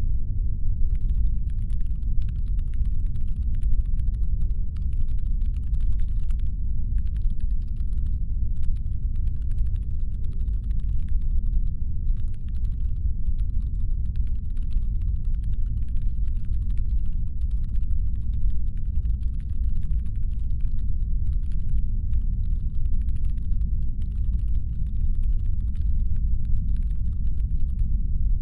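Steady deep brown-noise rumble of a designed spaceship engine hum. A faint patter of rapid light clicks starts about a second in and comes and goes over it, with brief pauses.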